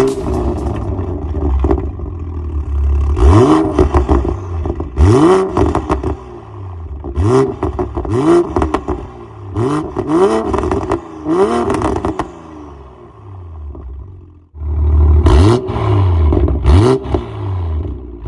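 Toyota GR Supra's turbocharged B58 straight-six, through a valved MS-R catback exhaust, revved again and again in short blips of about a second each, with sharp crackles around the top of each rev. There is a short lull about two-thirds of the way through, then the blips resume.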